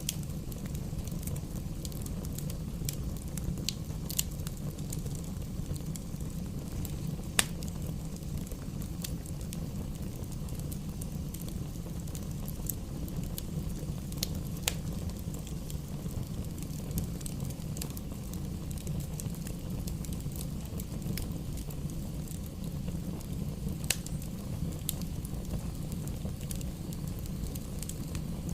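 Fire burning in a fireplace: a steady low rumble of the flames with irregular sharp crackles and pops, the loudest about seven seconds in.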